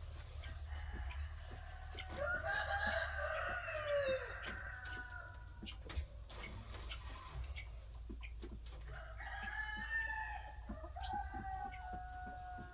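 Two long rooster crows, one about two seconds in and another starting near the end, with chickens clucking around them.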